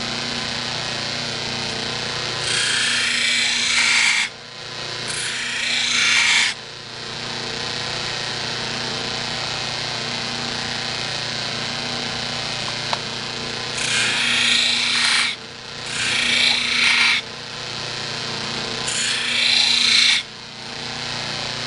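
Buffer motor running steadily with its deburring wheel while a horseshoer's hoof knife is pressed against the wheel in five separate passes, each a loud hissing grind of about one and a half seconds that stops suddenly. This is the blending stage, working the file-roughened edge into the belly of the knife.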